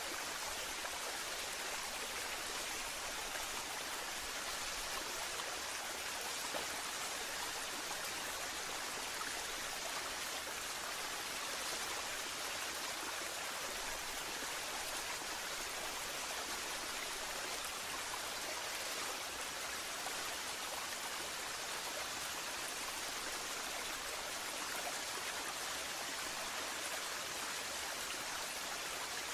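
Waterfall water falling and splashing in a steady, even hiss that never lets up.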